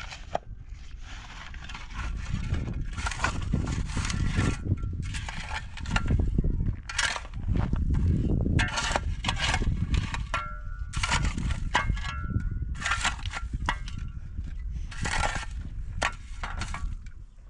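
Construction work: an irregular run of knocks, cracks and crunching, like wood and debris being broken and handled.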